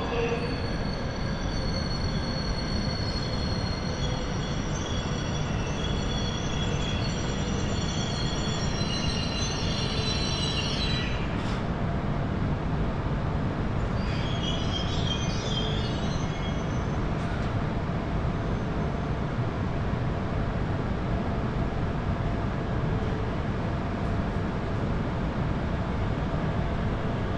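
Shinkansen train moving along the platform with a steady rumble, overlaid by several high-pitched whining tones that fade out about ten seconds in and return briefly a few seconds later.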